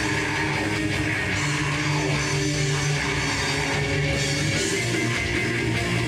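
Live heavy metal band playing: distorted electric guitars over a drum kit, with no vocals.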